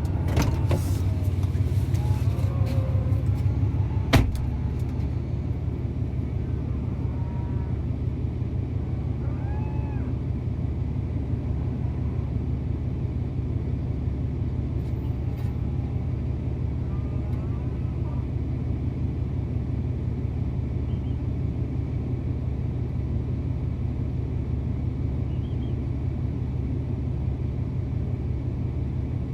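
Pickup truck engine running with a steady low drone, with a few faint cattle calls near the start and again later, and a single sharp knock about four seconds in.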